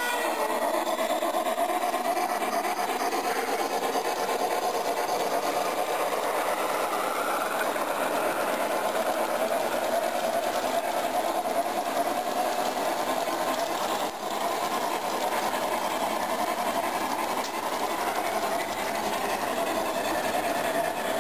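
Model train running along the track: a steady rattle of wheels on rails.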